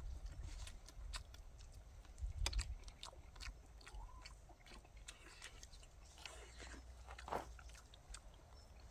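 Close chewing and mouth sounds of someone eating boiled chicken (baeksuk), with scattered small clicks and smacks.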